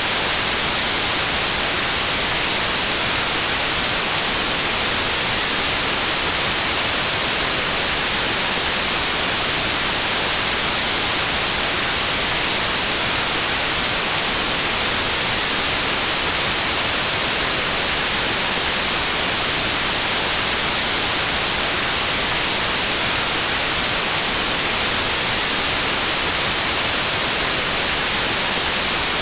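Steady white noise: an even hiss with most of its energy in the high end.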